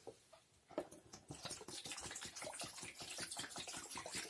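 Water being poured into the aquafilter tank of an Arnica Damla Plus water-filter vacuum cleaner: a splashing trickle that starts about a second in and grows louder as the tank fills.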